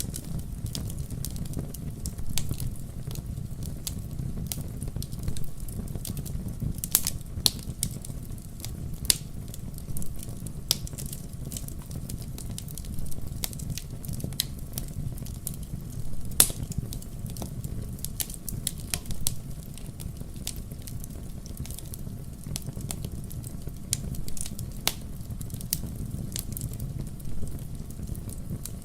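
Wood fire in a fireplace burning steadily, with a low rumble of flames and frequent sharp, irregular crackles and pops.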